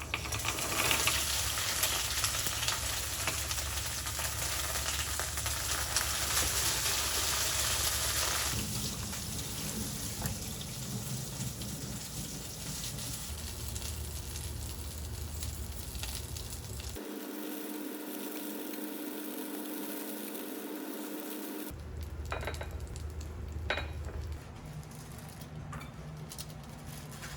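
Food sizzling and frying in a hot pan: a steady crackling hiss, loudest for the first eight seconds or so, then quieter.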